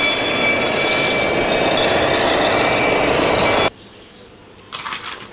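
Electronic sound effect from a toy fire-rescue water tanker's built-in speaker: a loud, steady rushing noise with several high held tones over it, cutting off suddenly about three and a half seconds in. A few light plastic clicks follow near the end.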